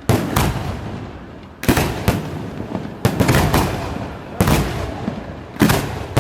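Fireworks going off in volleys: a sharp bang about every second and a half, five in all, each trailing off into echoing rumble and crackle.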